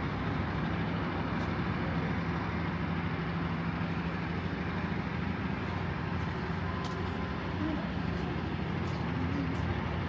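Steady city road traffic: motor vehicles running past in a constant rumble with a low engine hum and a few faint clicks.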